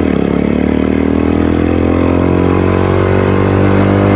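Venom X22R (DF250RTS) 250cc motorcycle engine pulling under acceleration, its note rising steadily in pitch.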